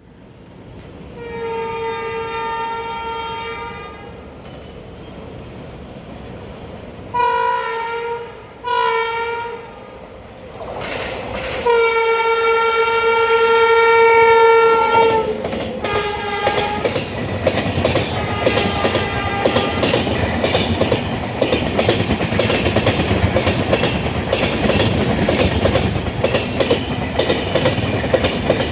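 Indian Railways electric locomotive horn sounding a long blast, two short blasts and another long blast. The express train then runs past close by, its wheels clattering steadily over the rail joints.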